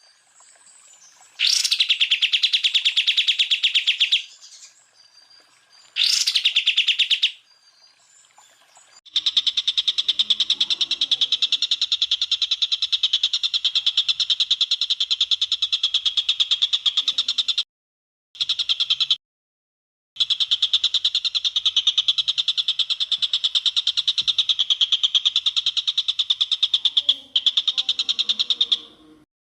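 Cucak ijo (greater green leafbird) song: long bursts of very rapid repeated shrill notes. The first two bursts open with a quick upward sweep, and the bursts stop and start abruptly with short gaps between them.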